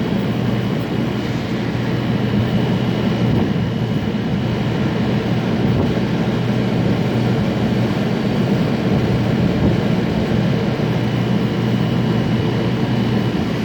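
Air conditioner running in cool mode, close up: the fan blowing and the compressor running in a steady loud hum, with a faint high whine over it.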